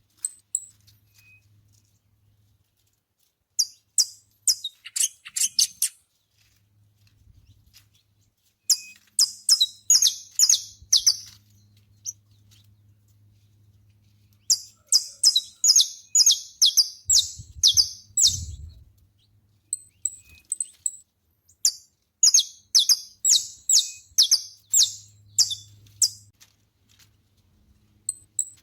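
Saffron finch singing: four bouts of quick, high, sharp notes in rapid series, each bout lasting a few seconds, with short pauses between them.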